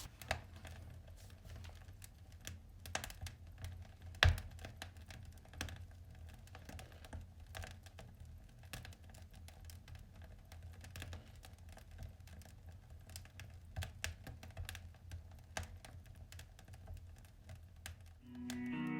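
Wood fire crackling, with irregular small pops and one louder pop about four seconds in, over a low steady hum.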